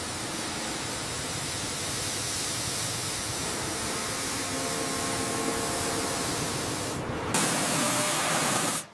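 Steady hissing spray noise that turns brighter and slightly louder about seven seconds in, then cuts off abruptly at the end.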